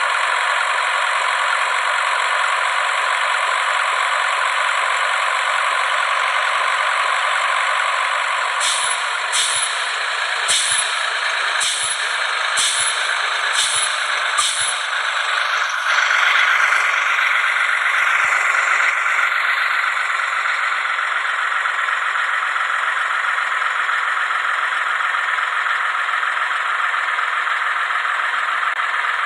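A truck's steady, hissing running noise. Near the middle come about seven sharp clicks roughly a second apart, and after that the noise gets somewhat louder.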